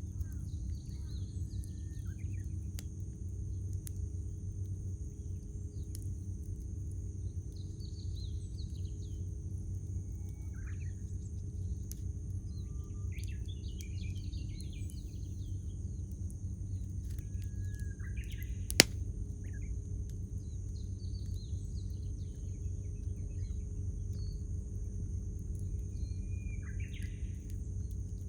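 Wood fire burning with a low steady rumble and occasional sharp crackles, one loud pop about two-thirds of the way in, while wild birds call on and off.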